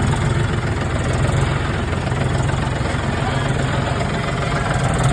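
An engine idling steadily, with a continuous low hum.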